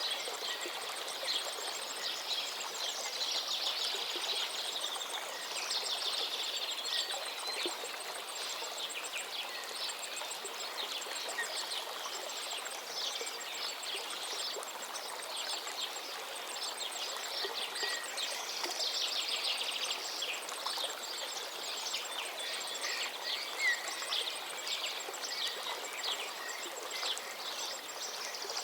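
Several songbirds singing over a flowing forest river: dense, overlapping songs, trills and chirps over the steady rush of water.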